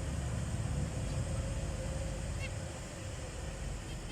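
Zebra finches giving a few short, nasal calls, once about a second in, again about two and a half seconds in and at the very end, over a steady low rumble.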